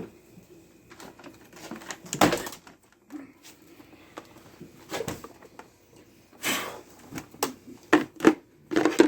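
Plastic parts of a vacuum cleaner being handled and fitted as it is put back together: a scattered series of clicks and knocks, with a short rustling rush about two-thirds of the way through.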